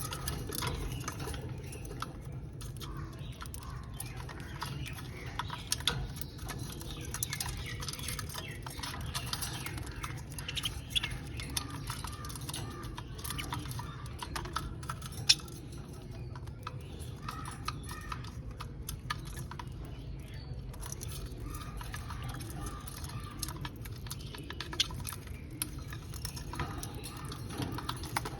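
Budgies cracking and husking sunflower seeds with their beaks: many small, irregular clicks and crackles over a steady low hum, with a few soft chirps.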